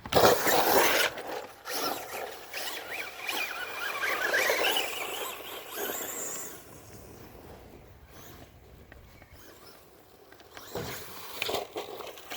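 Traxxas Rustler VXL RC truck driving hard: its brushless motor whining up and down in pitch as it speeds up and slows, with the tyres scrabbling over the ground. It is loudest in the first second, fades away from about six to ten seconds in, then comes back near the end.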